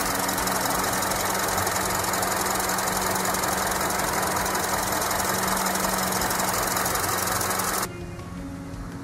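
Honda CR-V's four-cylinder engine idling, heard close up in the engine bay: a steady hiss with fast ticking and a low hum. It cuts off suddenly near the end.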